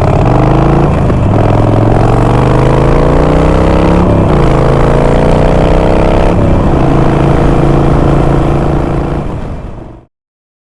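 Motorcycle engine pulling away and accelerating, its pitch climbing and dropping back twice as it shifts up through the gears, then holding steady before fading out near the end.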